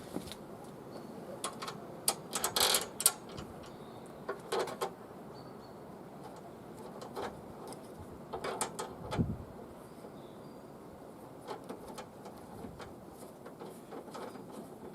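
Clicks and light clatter of a mower's handle parts and bolts being handled and fitted, in three short clusters, with a dull thump about nine seconds in.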